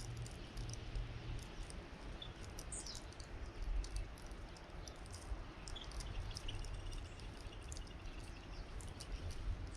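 Small songbirds at a winter feeder: faint, high chirps, with a short run of them about six seconds in, among many quick, sharp ticks, over a steady low wind rumble.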